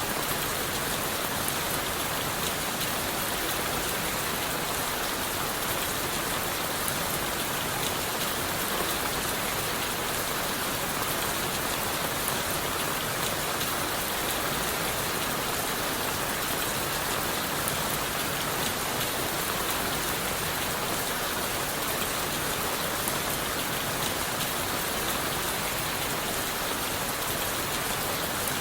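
Steady rain falling on leaves, wood and the forest floor, a dense even hiss with fine pattering of individual drops, unchanging throughout.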